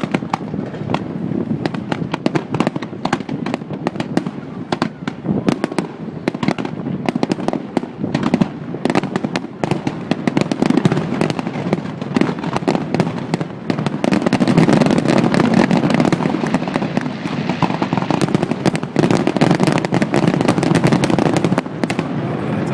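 Fireworks display: a dense, continuous barrage of sharp bangs and crackles, heaviest and loudest through the second half.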